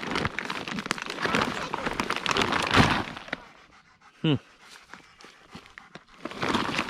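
Crunching and rustling through dry leaves and brush for the first few seconds. About four seconds in comes a single short, high-pitched cry, then more rustling near the end.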